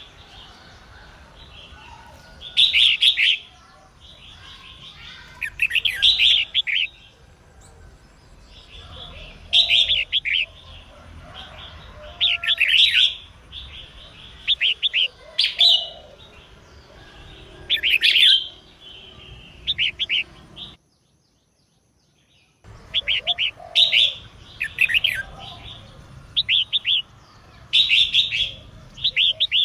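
Female red-whiskered bulbul singing short, bright chirping phrases, one every two to three seconds. The sound drops out entirely for under two seconds about two-thirds of the way through.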